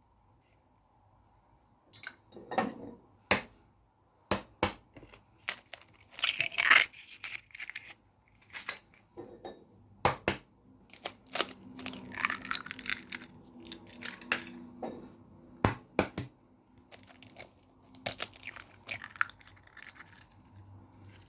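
Eggs being cracked one after another: an irregular series of sharp taps and cracks, with softer handling noise between, starting about two seconds in.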